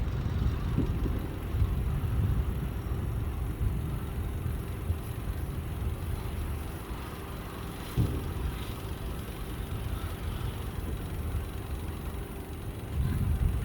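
Distant fireworks shells bursting over the harbour: a continuous low rolling rumble of booms and their echoes, with a sharper boom about eight seconds in.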